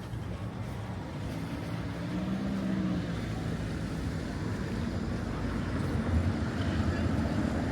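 A motor vehicle's engine running in outdoor street noise, a low rumble that grows slowly louder.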